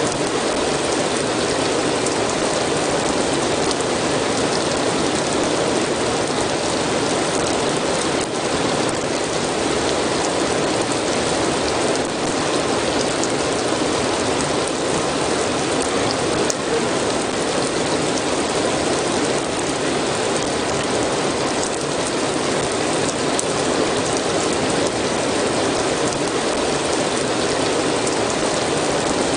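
Steady rain: an even, unbroken hiss of many falling drops.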